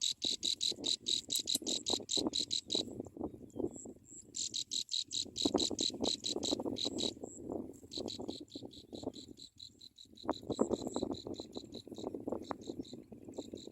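Cricket chirping: high, evenly spaced pulses, about six or seven a second, in three bouts with short pauses between, over a low irregular rustling.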